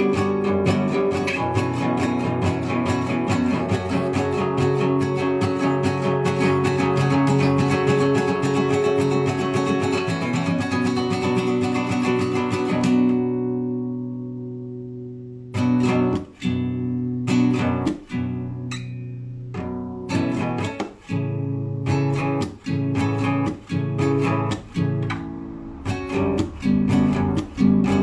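Classical guitar played solo and improvised. A fast, dense run of arpeggiated notes rings and dies away about halfway through. Then come separate plucked chords with short gaps between them, some stopped sharply.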